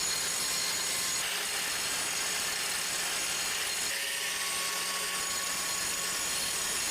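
A power tool running steadily under load while it works the tool-post workpiece: a continuous hiss with a faint steady hum.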